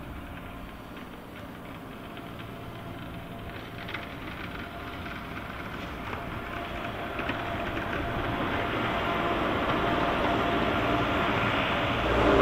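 Diesel engine of a heavy farm vehicle running, growing steadily louder.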